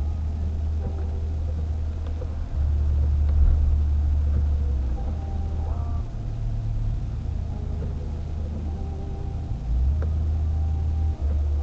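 Car driving along a snowy road, a steady low rumble of engine and road noise with small rises and dips in level.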